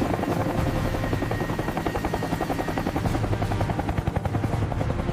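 Military helicopter in flight: the rotor blades beat in a rapid, even rhythm, steady throughout.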